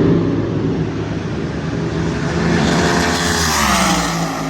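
Super Comp dragster engine running hard on the drag strip, a loud, dense engine sound whose pitch bends about three seconds in.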